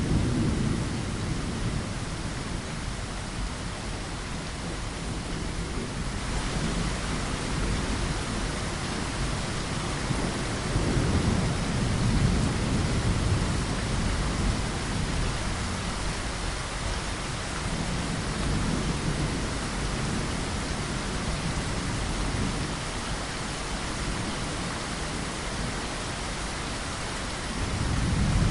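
Steady rain falling, with low rolling thunder rumbling up and fading several times. The rain grows louder about six seconds in.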